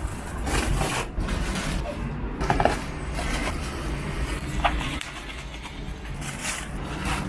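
Steady low rumble of vehicle or traffic noise, with scattered short knocks and rustles.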